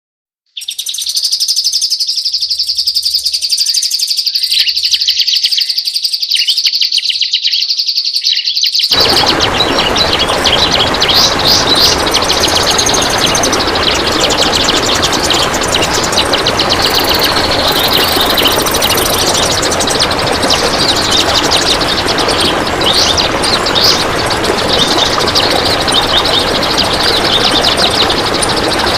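Kapas tembak songbird singing in long, dense, rapid-fire runs of high chattering notes. About nine seconds in, a loud steady hiss joins the song and runs on under it.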